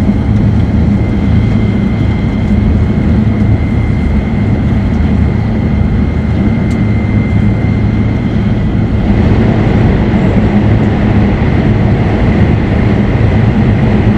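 Cabin noise of a Shinkansen bullet train running at speed: a loud, steady rumble with a low hum and a thin high tone over it.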